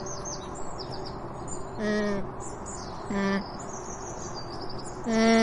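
Birds chirping steadily, with three short pitched animal calls over them, each well under a second, the last one the loudest.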